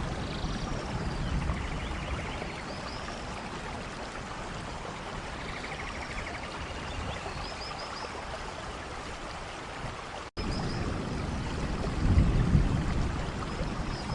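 Steady rain falling in a rainforest, with short high chirps recurring every few seconds. A low rumble swells near the end, and the sound drops out for an instant about ten seconds in.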